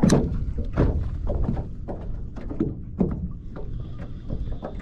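Wind rumbling on the microphone, with a string of irregular knocks and thumps from gear on a kayak. The loudest knock comes right at the start, and a faint thin high whine enters near the end.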